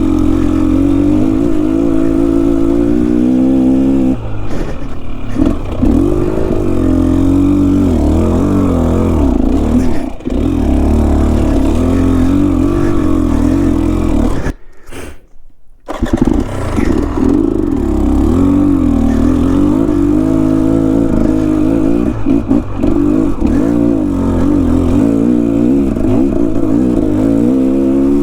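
Enduro dirt bike engine on a steep, technical climb, its note rising and falling as the throttle is blipped and the engine lugs. About halfway through the sound cuts out for about a second and a half, then the engine picks up again.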